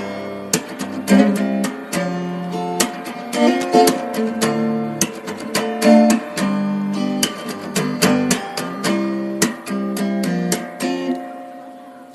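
Background music: acoustic guitar picking notes and strumming chords.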